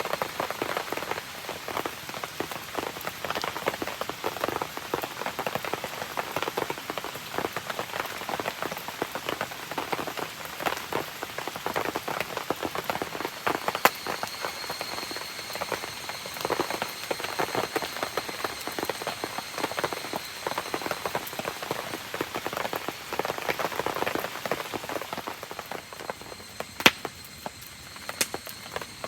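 Steady rain pattering densely on surfaces, with a few sharper snaps near the middle and near the end.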